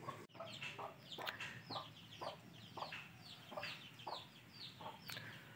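Chickens clucking faintly, with a steady run of short, high, falling chirps, several a second.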